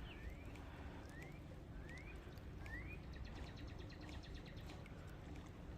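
A bird calling outdoors in short rising whistles, repeated about every second for the first few seconds. From about three seconds in there is a rapid run of faint ticks, over the low rumble of wind.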